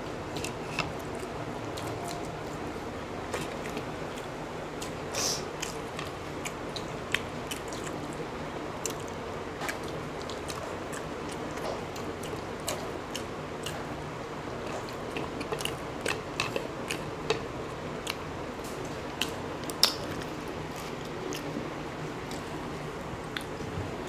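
People eating boiled eggs: chewing, with many small, sharp mouth smacks and clicks scattered throughout, the sharpest about twenty seconds in, over a steady background hum.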